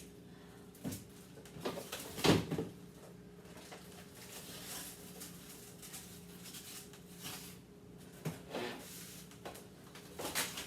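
Food packages and containers being handled and set down in a refrigerator, with clunks and knocks of its shelves and drawers. The loudest knock is about two seconds in, with a few more near the end, over a steady low hum.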